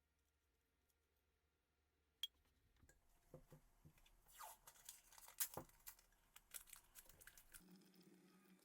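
A single sharp click, then about four seconds of irregular crinkling and crackling with small clicks, close and fairly quiet, stopping suddenly near the end.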